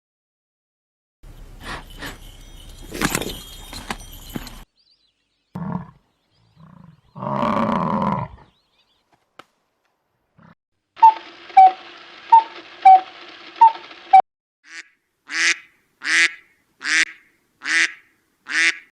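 A string of different farm animal calls, one clip after another with short gaps between them. It ends with a rhythmic run of short repeated notes, then about six short calls a little under a second apart.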